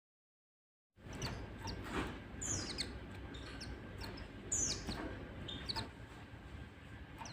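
White-eye (pleci) calling: short, high chirps and twitters, several sliding quickly downward in pitch. They begin about a second in, after a moment of dead silence.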